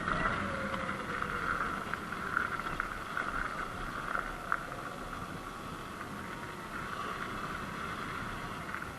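Sur-Ron Light Bee X electric dirt bike riding along, its electric motor whining faintly in a pitch that falls and later rises with speed, over steady rushing and rumbling road noise. A single sharp click about halfway through.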